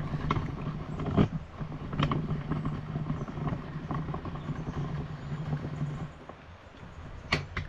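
A machine's steady low hum with scattered clicks and knocks, cutting off about six seconds in.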